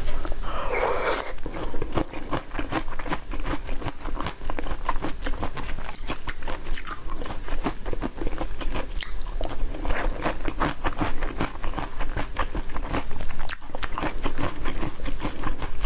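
Close-miked biting and chewing of dark red jelly pieces: a dense, continuous run of small wet crunching clicks.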